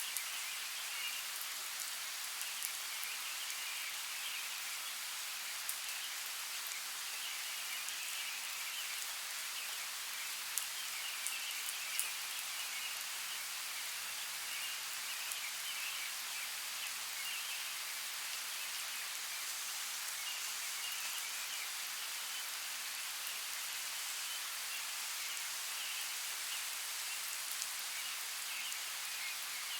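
Steady rain falling as an even hiss, with a few sharper drop ticks about ten to twelve seconds in.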